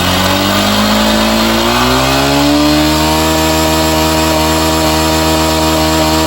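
Small motorcycle engine revved up over the first two seconds or so, then held steady at raised revs. This is a charging-system test: at these revs the battery reads only about 13.2 V instead of the expected 14.2 V, a sign that the bike isn't charging.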